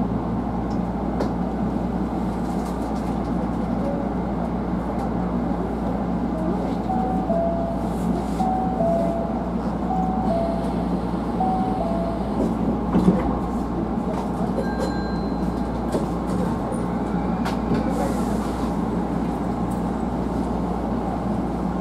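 Hankyu 1000-series electric train heard from behind the driver's cab: a steady hum and rumble of the train. Midway there is a short run of alternating high-low two-note tones, and a little later a single sharp knock, the loudest moment.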